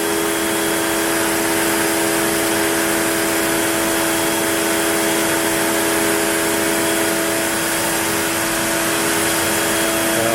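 Onefinity CNC router's spindle running steadily while cutting wood, a constant whine of several steady tones over a broad rushing noise.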